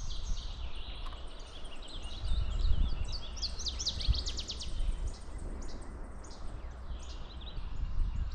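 Several songbirds singing together in a spring dawn chorus, with a fast trill of quick high sweeping notes about three to four seconds in. A low rumble runs underneath on the microphone.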